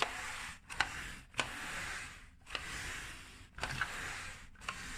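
Plastic pet hair remover roller being pushed back and forth over fabric, making a rasping brush stroke each time, about five strokes. A sharp plastic click opens each stroke as the rocking mechanism changes direction.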